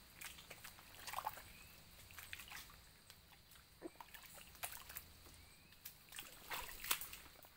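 Faint wet sloshing and splashing of footsteps through soft, wet ground, with scattered sharp clicks and a few faint rising chirps.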